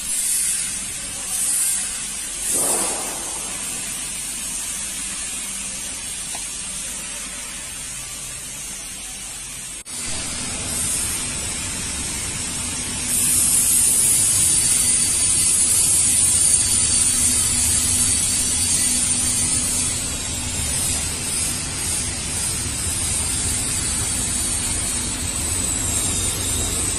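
Industrial microwave sterilizing machine running: a steady hiss with a low hum underneath. The hum comes in abruptly about ten seconds in, and the hiss gets louder a few seconds later.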